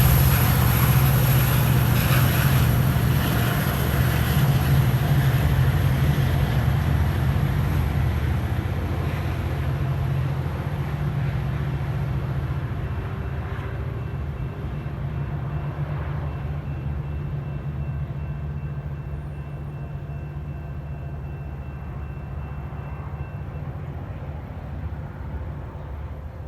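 Metra diesel commuter train moving away, its low engine and rail rumble fading steadily.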